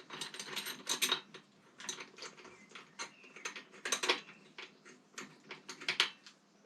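Small metal parts and hand tools clicking and clinking irregularly while a motorcycle's front-end parts are being taken off, with the sharpest clinks about a second in, about four seconds in and near the end.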